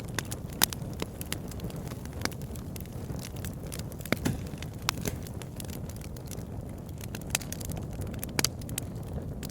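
Campfire burning with a steady low rumble of flames and scattered sharp crackles and pops from the burning wood.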